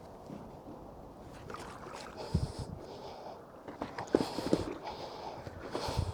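Water splashing and dripping in short spells, with a few knocks, as a fishing magnet and its scrap metal catch are hauled out of canal water.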